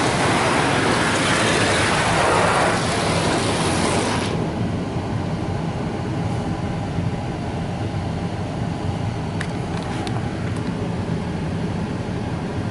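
Car wash spray pelting the car, heard from inside the cabin as a loud hiss that cuts off abruptly about four seconds in. A steady low hum from the wash machinery continues after it.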